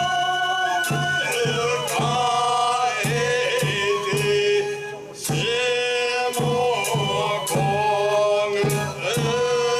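Banraku folk music: chanted singing with a held melody over a steady beat of struck percussion.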